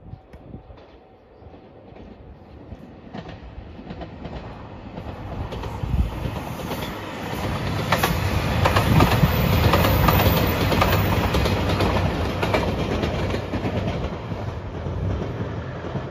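Three-car JR 2700 series diesel limited express train passing. It grows louder, is loudest about halfway through, then fades, with wheels clicking over the rail joints.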